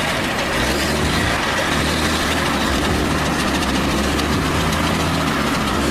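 Heavy vehicle engine running steadily at a low, even pitch, under a constant hiss.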